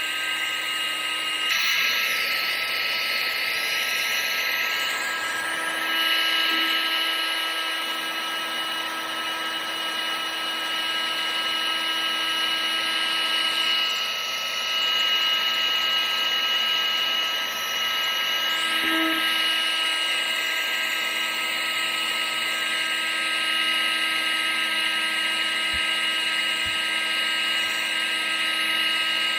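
Vacuum cleaner running continuously: a steady whine over a rush of air, shifting slightly in tone a few times.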